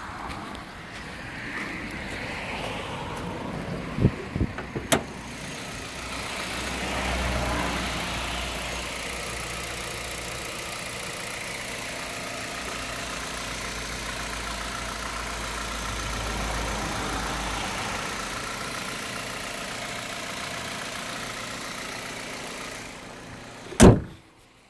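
Hyundai i30's engine idling steadily with the bonnet open. A few sharp clicks come about four to five seconds in, and near the end there is one loud thud as the bonnet is shut.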